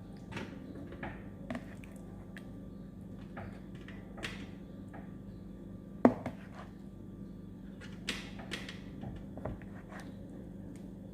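Marinated chicken pieces being laid into a wire grill basket, with scattered light clicks and knocks of the metal and one sharper knock about six seconds in, over a steady low hum.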